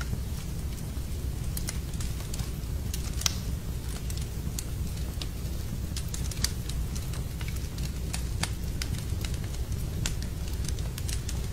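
Wood fire burning in a fireplace: irregular crackles and sharp pops over a steady low rumble. The loudest pops come about three seconds in and again after six seconds.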